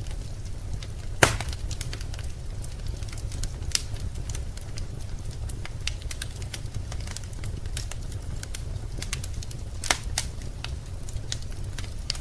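Wood fire crackling in a fireplace: scattered small clicks and snaps, with two louder pops, one about a second in and one near the end, over a steady low rumble.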